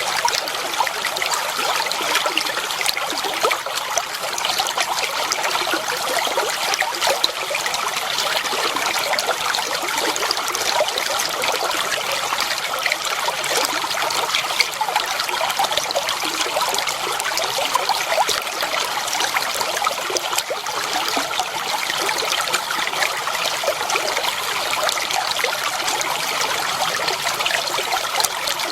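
Clear water flowing and trickling steadily in a shallow stream.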